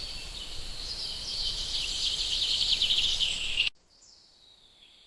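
Background nature ambience: a high, rapidly pulsing chirping trill that grows louder, then cuts off suddenly a little over halfway through.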